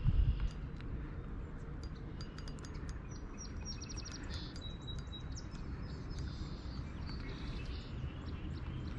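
Small songbirds chirping, with a quick run of repeated notes about three seconds in, over a steady low rumble. A dull thump comes right at the start.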